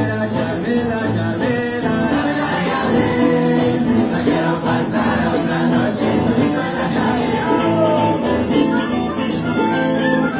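Music: a group of voices singing together in held notes, with instruments.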